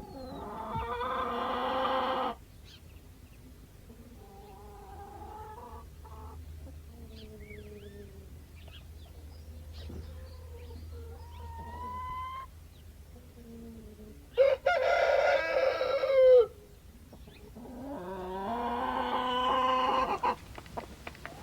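Rooster crowing three times, each crow about two seconds long, with quieter chicken calls between the crows.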